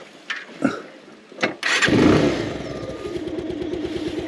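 A motorcycle engine starting: a few short clicks, then it catches about a second and a half in, runs up briefly and settles into an even idle.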